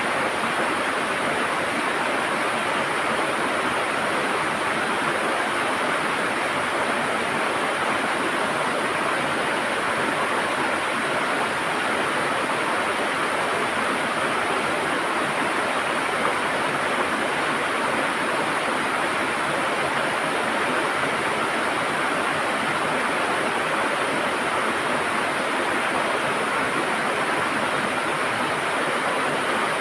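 River water flowing and gurgling, a steady unbroken rush that neither rises nor falls.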